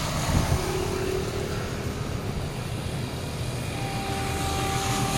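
Train running by: a steady rumble and rail noise, with faint steady engine tones coming up near the end.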